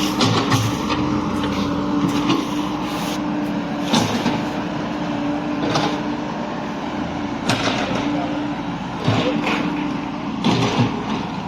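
Motor vehicle engine running with a steady hum, with a few short knocks and rattles scattered through.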